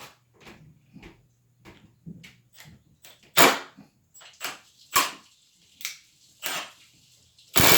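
Scattered clicks and knocks of tools and screws being handled and set in place, a few of them sharper and louder. Near the end a cordless impact driver starts hammering a screw in, loud and continuous.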